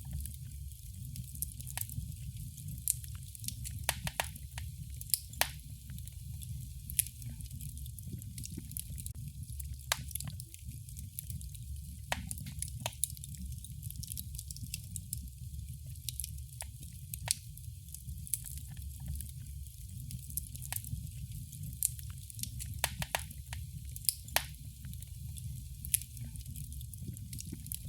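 Wood fire crackling in a fireplace: frequent sharp pops and snaps, a few louder ones, over a steady low rumble of the burning fire.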